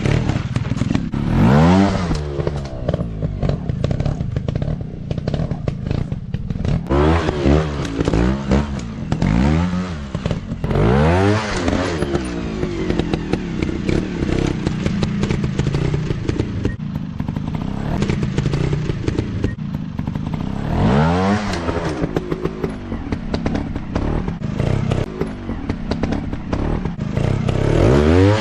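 Dirt bike engines revving up and down over and over, each throttle burst rising in pitch and then falling away, with a rattling clatter throughout.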